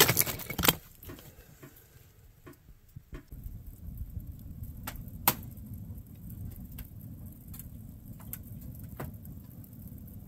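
A few metallic clanks at the start, then a steady low rumble with sharp crackles every second or so: freshly lit kindling burning and drawing in a small wood stove.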